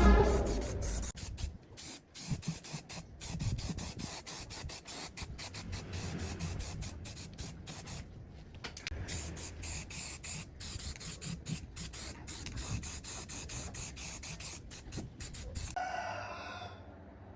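Irregular scraping and rubbing strokes of hand abrasive work on a part, in short uneven strokes. A loud low rumble stops about a second in, and a brief pitched squeak sounds near the end.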